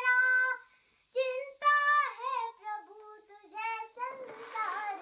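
A young girl singing a Hindi devotional aarti solo, holding and bending notes, with a brief pause about a second in.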